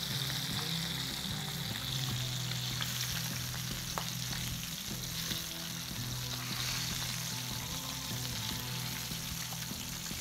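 Battered chicken wings frying in a shallow pan of hot oil: a steady sizzle.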